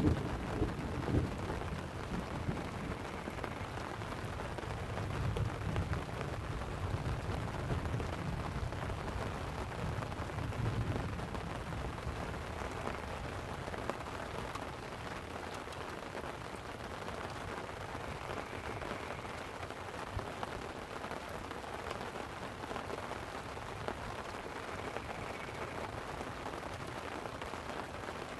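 Light rain falling on a tent as a steady hiss, with rolling thunder rumbling low through roughly the first ten seconds and then dying away.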